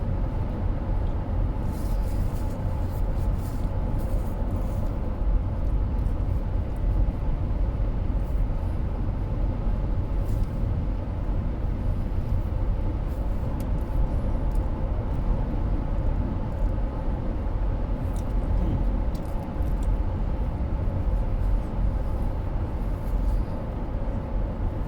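Steady low road and engine noise inside a moving car's cabin, with faint small clicks now and then.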